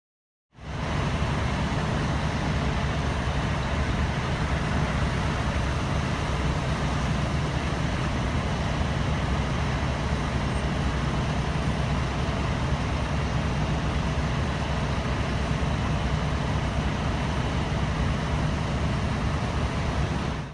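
Steady rumble of a Melbourne Metro electric suburban train passing through a level crossing, heaviest in the low range. It starts abruptly about half a second in.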